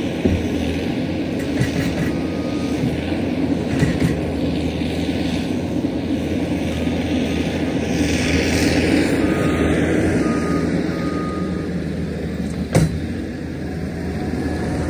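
Diesel engine of heavy land-clearing machinery running steadily, with a few faint short beeps about two-thirds of the way through and one sharp knock near the end.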